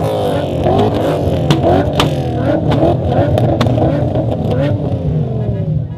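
Several BMW M5 engines running together, blipped in quick repeated revs over a steady idle, each rev falling away fast, with sharp cracks scattered through.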